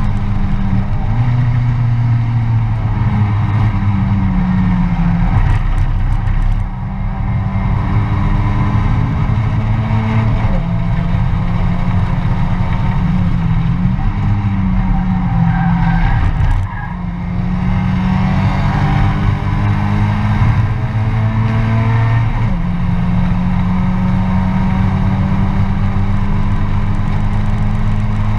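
Mazda MX-5 race car's four-cylinder engine, heard from inside the open cockpit, running hard under racing load. The level dips briefly twice, about six and a half and sixteen and a half seconds in, and the pitch steps down a couple of times at gear changes.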